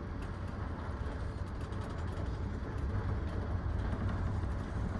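Steady low rumble of a passenger sleeping car running on the rails, heard from inside a closed sleeper compartment.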